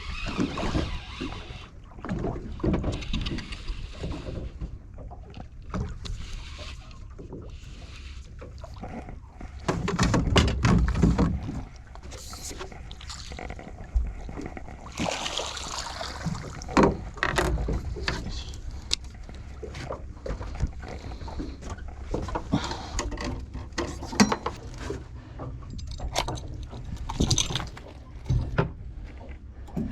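Sounds aboard a small fishing boat on the water: a steady rushing noise broken by irregular knocks and clicks, with a louder rush lasting about two seconds around ten seconds in.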